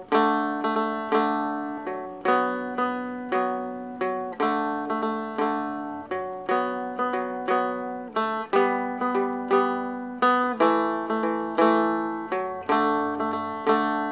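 Seagull Merlin M4 stick dulcimer played in a steady repeating pattern of a picked root note, a strum, an up-and-down pick on the middle string and another strum, with the notes ringing. The chord changes partway through.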